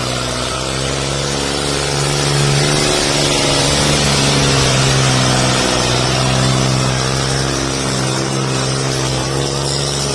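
Tractor diesel engine running loud and steady under throttle, its revs rising a little about two seconds in and easing after about six seconds.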